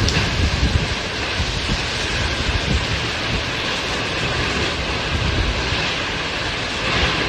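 Storm wind and rain: a steady rushing noise, with gusts buffeting the microphone in uneven low rumbles.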